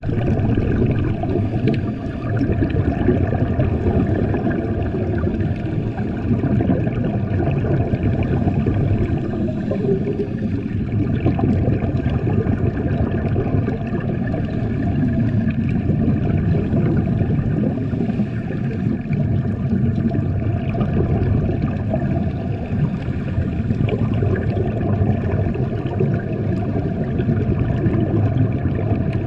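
Steady low, churning water noise with a few faint steady tones above it.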